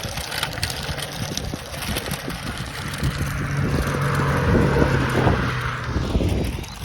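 A motor vehicle passing close by, its engine hum and road noise swelling to a peak about five seconds in, then fading away.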